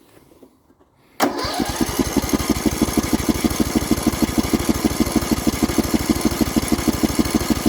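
Poulan Pro mower engine turning over on its electric starter, a steady, even chugging of about eight beats a second that starts suddenly about a second in, cranking with the choke off without catching.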